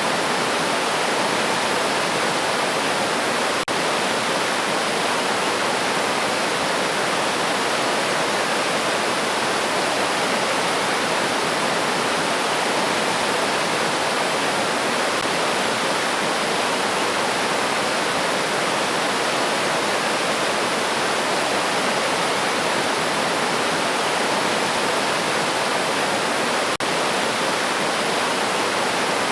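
River stream flowing: a steady rushing of water, with two momentary dropouts.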